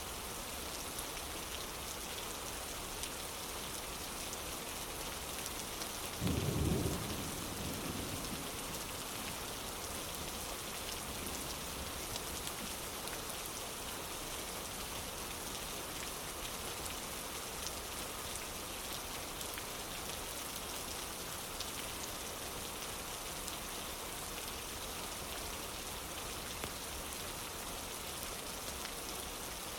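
Steady rain falling. About six seconds in, a short, deep thunder clap stands out above the rain and dies away within about two seconds.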